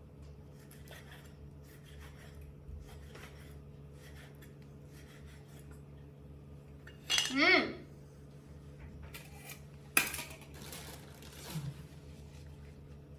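Cutlery and dishes clinking and scraping during food preparation, with a sharp clatter about ten seconds in. A short wavering cry rises and falls about seven seconds in.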